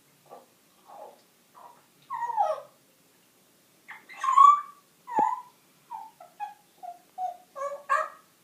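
African grey parrot making a string of short squeaks and whistled chirps, some gliding down in pitch, about a dozen in all.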